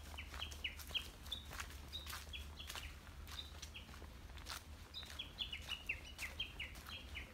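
Birds calling: many short, high, slightly falling chirps repeated irregularly, a few each second, with scattered faint clicks and crackles.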